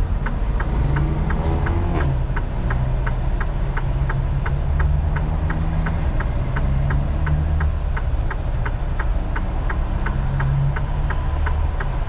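Semi-truck diesel engine idling heard from inside the cab, with the turn-signal indicator ticking steadily at about three clicks a second.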